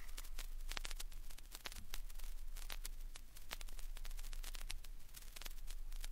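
Vinyl LP surface noise in the run-out groove between tracks: scattered clicks and pops over a faint hiss and a steady low hum.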